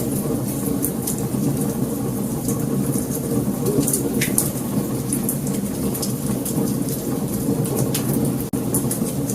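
Wood fire crackling, with many sharp pops and snaps over a steady low rumble of flames. The sound drops out for an instant about eight and a half seconds in.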